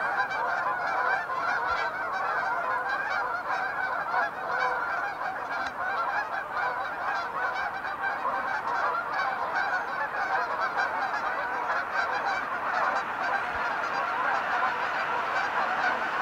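A large flock of Canada geese honking, with hundreds of calls overlapping into one continuous chorus at a steady level.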